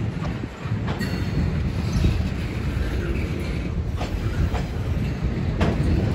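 Intermodal freight train's cars rolling past: a steady low rumble of steel wheels on rail, with several sharp clicks as wheels strike rail joints.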